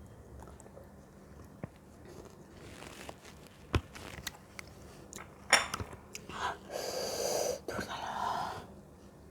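Close-up eating of fruit: crunchy bites and chewing with sharp clicks, the loudest about five and a half seconds in, then two longer breathy noises near the end.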